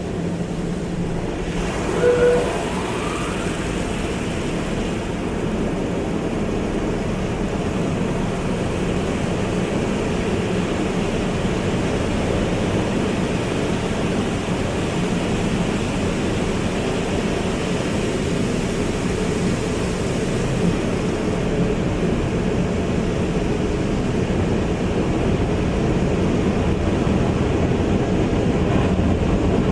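Automatic car wash running: a steady rush of water spray and machinery with a low hum underneath, and a brief higher tone about two seconds in.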